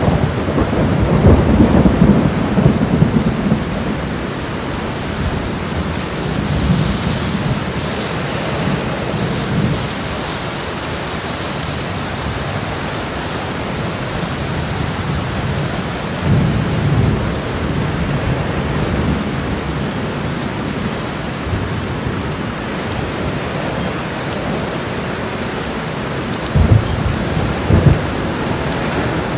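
Made-up thunderstorm sound effects: steady heavy rain with repeated rolls of thunder, the heaviest in the first few seconds and again near the end.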